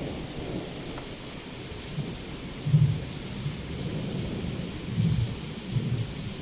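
Heavy rain falling in a steady hiss, with low rumbles of thunder. The thunder swells in short surges a few times, loudest about three seconds in and again twice near the end.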